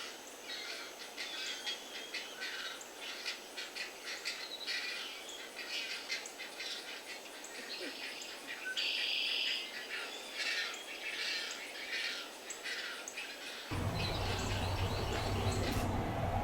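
Small birds chirping, many quick short calls and one buzzy note about nine seconds in. About fourteen seconds in, this cuts to a steady noisy background with a low hum.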